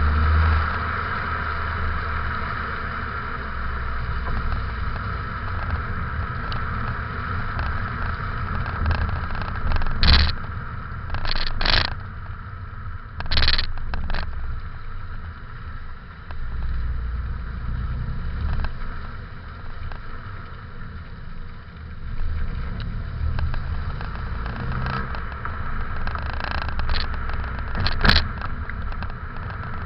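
Ford Fiesta Mk7 EcoBoost engine on its standard exhaust, running as the car is driven slowly, with a steady low rumble that rises and falls with the throttle. A few short sharp scrapes or knocks cut in, three between about 10 and 14 seconds in and one near the end.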